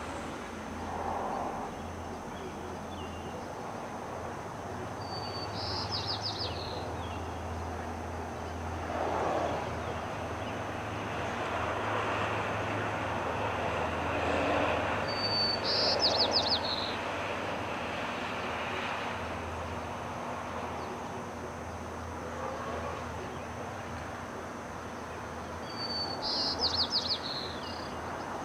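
A songbird singing the same short song three times, about ten seconds apart: a brief high lead note, then a quick run of notes. Under it there is a steady low hum and a faint rushing background that swells a little in the middle.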